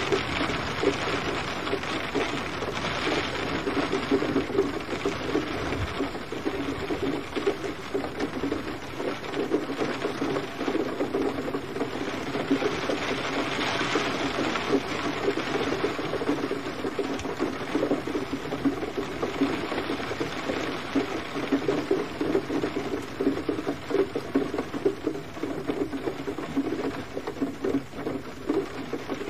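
Steady gentle rain: a dense, even patter of drops with no breaks.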